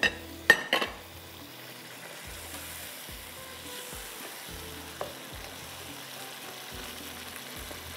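Potato pieces and spice masala sizzling as they are sautéed in a non-stick wok and stirred with a metal slotted spoon. A few sharp knocks in the first second, then steady sizzling.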